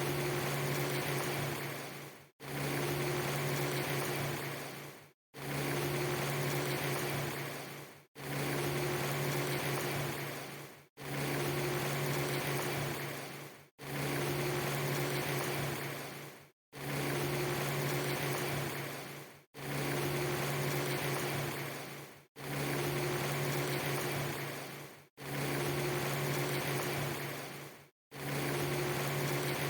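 Steady hiss with a low hum, a clip of under three seconds played over and over: about ten repeats, each fading slightly and cutting to silence for an instant before the next begins.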